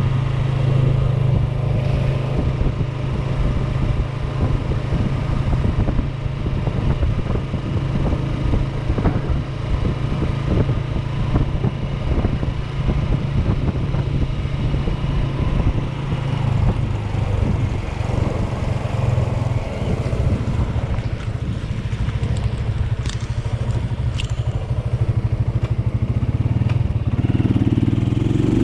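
AKT NKD motorcycle's small single-cylinder engine running at steady cruising speed, heard from the rider's seat with wind buffeting the microphone. The engine note builds near the end.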